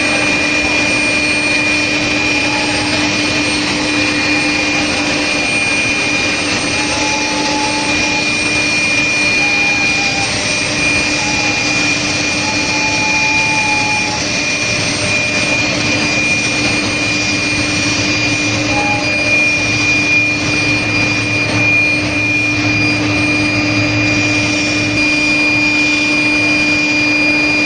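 Steady machinery noise from a steel rail induction hardening and tempering line, with a constant high tone and a lower hum running through it.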